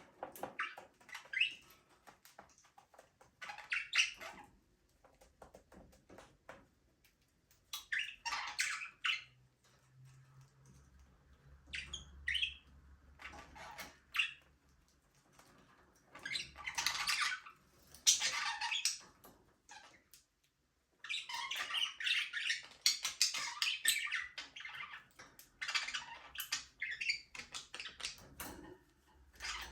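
A flock of budgerigars chattering and chirping in scattered bursts with short pauses between, busier and more continuous in the second half.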